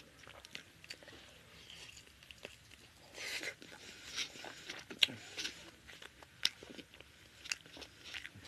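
Close-up eating sounds of a person chewing chicken curry and rice eaten by hand: irregular wet mouth clicks and lip smacks, the sharpest about five seconds in.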